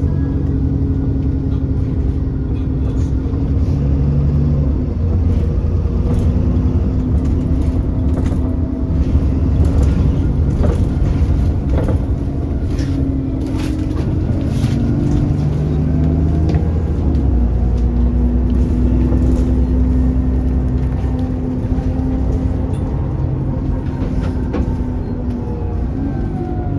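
Alexander Dennis Enviro400 double-decker bus running, its engine note rising and falling with a pitch change around the middle as it pulls away or changes gear, with scattered sharp knocks and rattles throughout.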